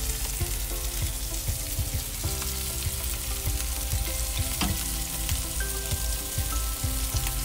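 Burger patties and bacon sizzling steadily on a hot griddle over a gas stove, with scattered light clicks of a spoon against a bowl and tongs against the griddle.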